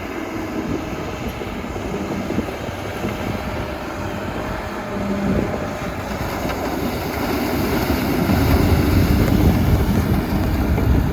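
Crawler bulldozer's diesel engine working under load with its steel tracks clattering, growing louder about two-thirds of the way through.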